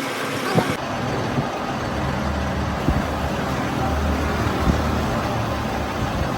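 Steady low mechanical rumble of a running engine or machine, with a few short sharp knocks now and then.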